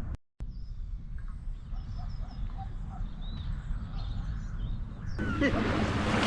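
Wind rumbling on the microphone with birds calling faintly and repeatedly. About five seconds in, it cuts to louder rushing wind and water noise.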